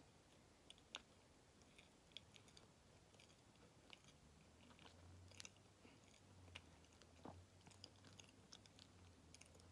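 Near silence with faint chewing of a soft white-bean-paste cake: scattered quiet mouth clicks and smacks. A low hum comes in about halfway through.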